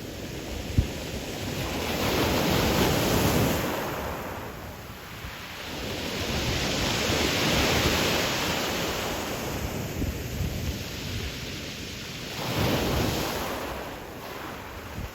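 Sea waves breaking and washing up a pebble beach, swelling and ebbing in three surges about every five seconds. Some wind buffets the microphone.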